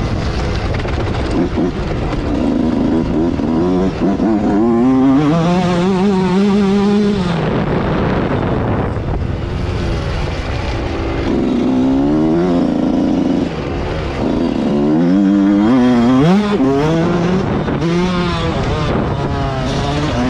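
Motocross bike engine under hard riding, its revs climbing and dropping back again and again as the throttle is worked and gears change, over a constant rush of wind and track noise.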